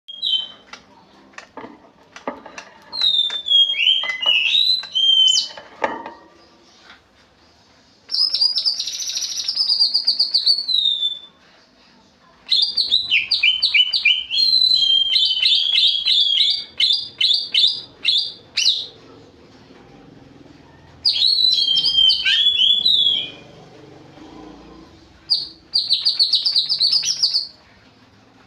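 Greater green leafbird (cucak ijo) singing in five loud bursts of rapid, sharp, high chirping phrases, with short pauses between them. This is the fierce rapid-fire song that bird keepers call 'tembakan pedes'.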